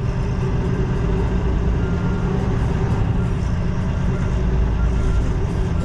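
Semi truck's diesel engine running steadily, a low rumble heard from inside the cab.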